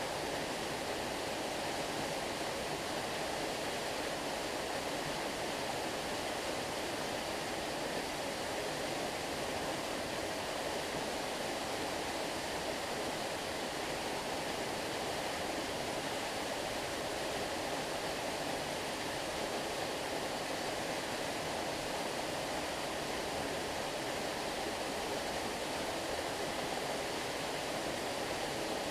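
Flowing stream water rushing steadily, an even, unbroken noise with no changes.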